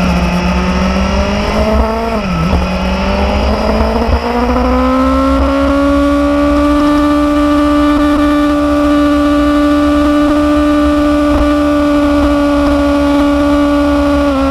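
Motorcycle engine running under way. Its pitch dips briefly about two seconds in, climbs over the next few seconds, then holds a steady note and eases off slightly near the end, over a constant low rumble.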